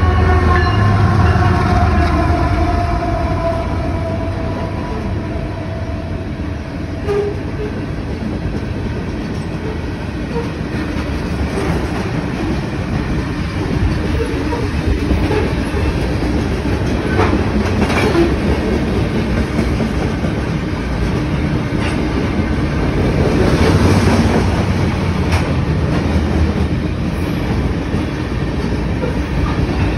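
CN freight train of covered hopper cars rolling past, with a steady rumble of wheels on rail and occasional sharp clanks. In the first few seconds a locomotive's tone slides down in pitch and fades.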